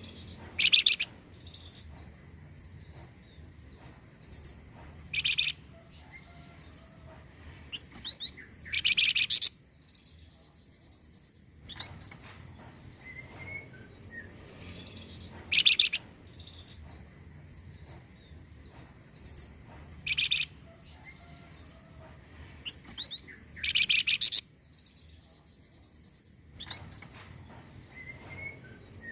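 Recorded song of the bird that Indonesian bird-keepers call 'flamboyan', played as a lure. Short loud bursts of high chirps come every few seconds, with softer twitters between, and the same sequence repeats about every 15 seconds.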